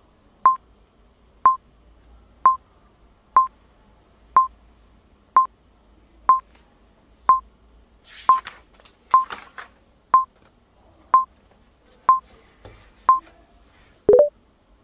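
Short electronic beeps, all on one pitch, sounding about once a second fourteen times like a countdown. A brief hiss comes in around the middle, and a lower two-note blip sounds near the end.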